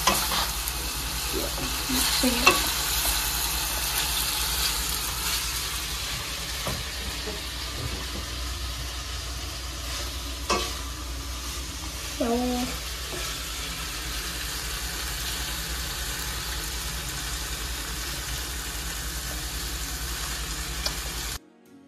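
Marinated chicken pieces sizzling as they pan-fry in oil in a kadai, with a wooden spatula stirring, scraping and now and then knocking against the pan. The sizzle cuts off suddenly near the end.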